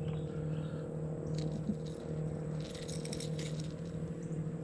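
Light rattling and clicking, bunched about three seconds in, over a steady low hum.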